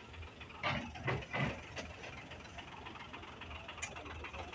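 An engine idling steadily, with three short noisy scrapes or crunches between about half a second and a second and a half in.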